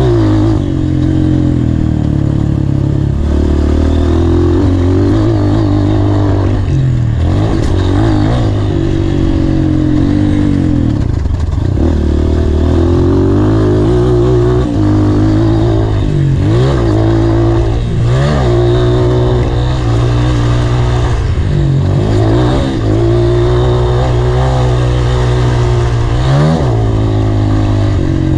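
Honda CRF230 dirt bike's four-stroke single-cylinder engine revving hard and falling back again and again as it is ridden around a motocross track, going up through the gears, with the throttle chopped briefly several times.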